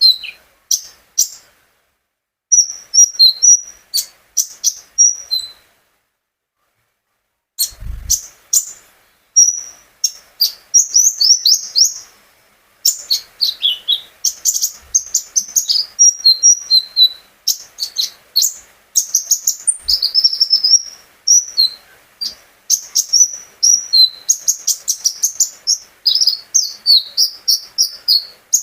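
A konin songbird singing in rapid bursts of high, sharp chirps, trills and clicking notes. It pauses for about two seconds early on, then sings almost without a break.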